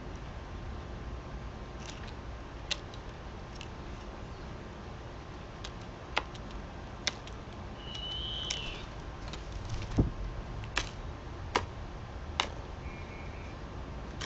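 Scattered sharp clicks and taps, with a heavier knock about ten seconds in, and a short bird call about eight seconds in, over a steady low rumble.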